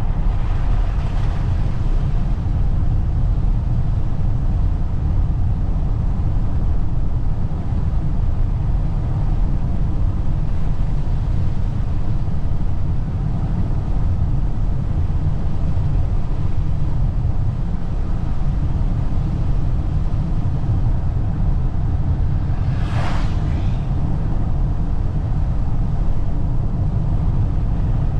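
Steady low road and tyre rumble of a Toyota RAV4 hybrid driving on a snowy road, heard from inside the cabin. A brief hiss is heard about three-quarters of the way through.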